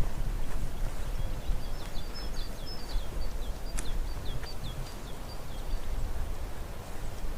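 A small songbird sings one phrase of short, high chirping notes in quick succession, lasting about four seconds, over a steady low rumbling background noise. A single sharp click sounds midway through.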